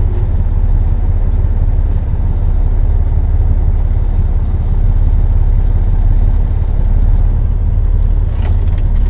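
Semi-truck's diesel engine running, a steady low rumble heard from inside the cab.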